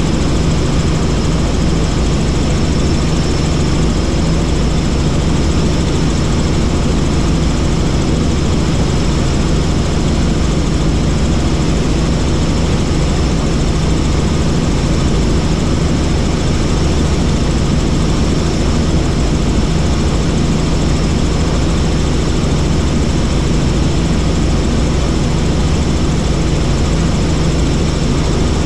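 Helicopter in flight: steady, loud engine and rotor noise with a constant low hum and a thin high whine over it.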